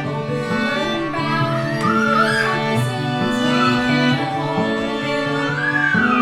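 Music: bowed strings playing, a violin carrying a wavering melody over sustained cello notes that move in steps.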